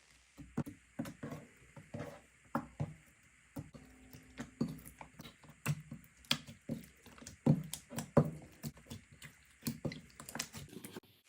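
Slime being squeezed and worked by hand, making an irregular run of wet clicks and pops, a few a second.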